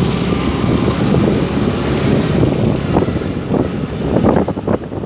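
A vehicle's engine running, with wind buffeting the microphone in gusts during the second half.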